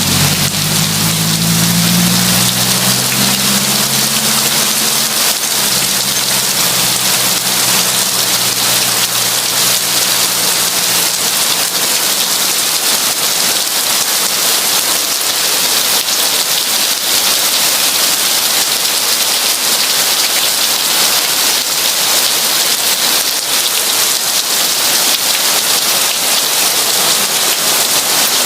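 Heavy rain pouring steadily, a dense even hiss. A low hum at the start fades away over the first ten seconds or so.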